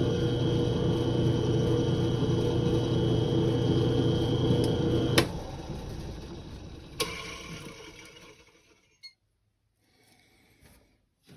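A machine tool's electric motor runs steadily, then is switched off with a click about five seconds in and spins down, fading out over the next few seconds.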